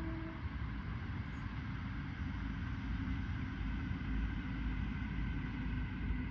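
A Southeastern electric multiple-unit train running past on the rails with a steady rumble and a faint whine. A horn blast cuts off a fraction of a second in.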